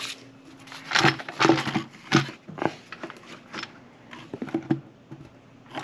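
Irregular clicks and knocks of hand tools and loose parts being handled while engine components are dismantled.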